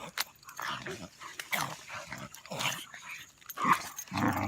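Two dogs, one of them a French bulldog, play-fighting: growling in short irregular bursts, loudest near the end.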